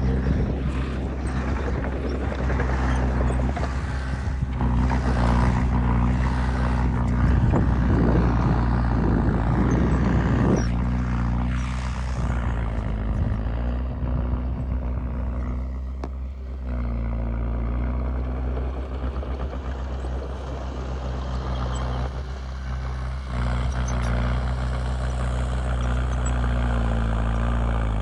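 Heavy diesel engines of earth-moving machinery running and working under load, louder and rougher for several seconds in the first half, with engine speed shifting near the end.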